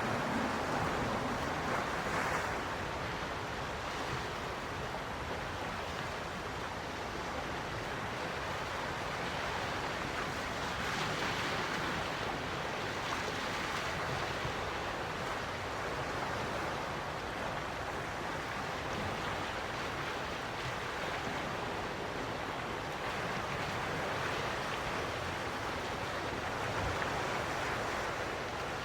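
Gentle ocean waves washing onto the shore, a steady wash of surf that swells softly every few seconds.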